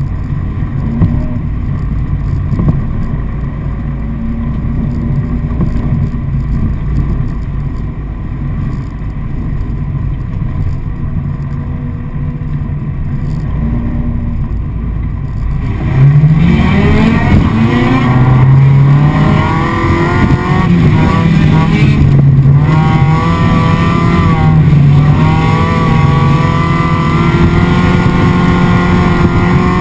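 Ice-race car's engine heard from inside the cabin. It runs at fairly low, steady revs, then about sixteen seconds in it gets louder and accelerates hard, the revs climbing and dipping again and again as it is driven around the track.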